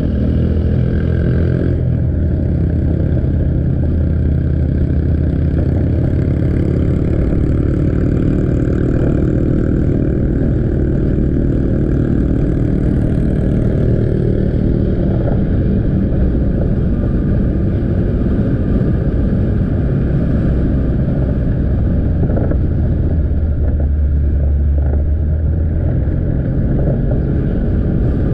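Motorcycle engine running under way, its note rising and falling with the throttle in the first half and holding steadier later, over road and wind noise on the helmet camera's microphone.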